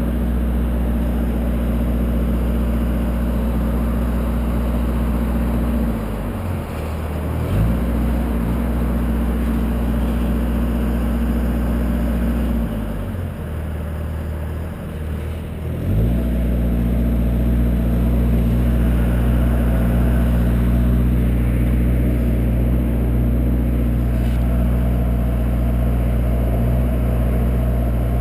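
A lift truck's engine running steadily; twice it drops to a lower speed and then revs back up as the boom is worked.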